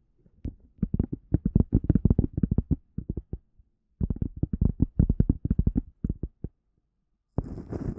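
Rapid, muffled tapping or thumping close to the microphone, about ten soft taps a second, in two runs with a short break between them, as an ASMR trigger. Near the end it stops and a steady rushing noise begins.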